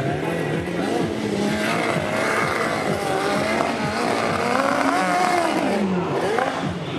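Motocross bike engines revving, their pitch rising and falling with the throttle, with a falling sweep near the end.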